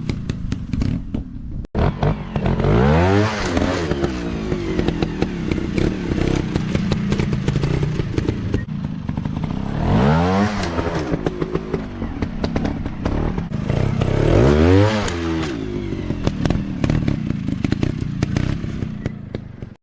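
Off-road motocross motorcycle engine revving, its pitch rising and falling three times, with crackling and clatter throughout.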